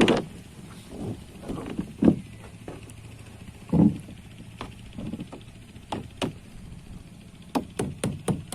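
Irregular dull thumps and knocks from the split plastic drum pieces of a boat being worked on, with a quick run of sharper taps near the end.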